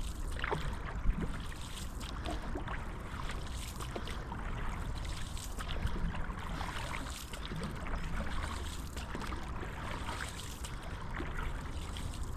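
Canoe paddle strokes through calm water: steady splashing and dripping as the blade goes in and comes out.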